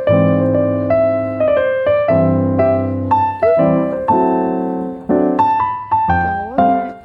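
Piano music: a melody of single notes struck about twice a second, each ringing and fading before the next.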